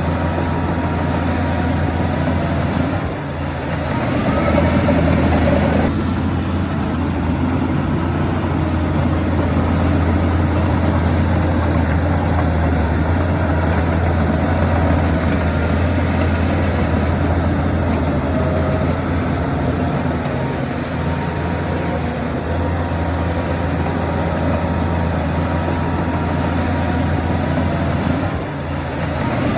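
Heavy diesel engine of earthmoving machinery running steadily with a deep, low hum. It dips briefly about three seconds in and again near the end.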